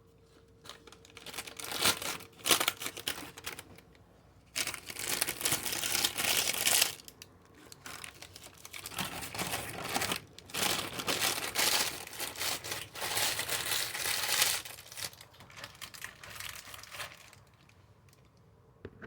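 Crinkling and rustling of packaging being handled, in repeated bursts over about fifteen seconds.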